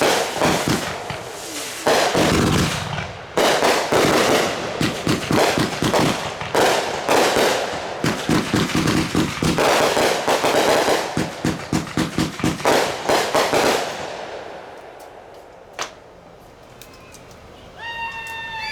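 Rapid barrage of consumer fireworks: dense bangs and crackle for about fourteen seconds, then fading out, with one last sharp crack a couple of seconds later. Crowd voices start up near the end.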